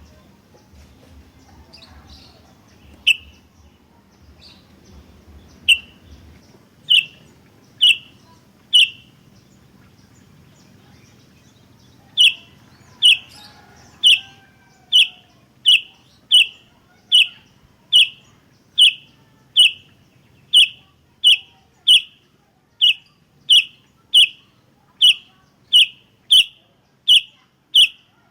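Sooty-headed bulbul (kutilang) giving short, sharp calls. A few come scattered at first, then an even run of more than one call a second from about halfway in.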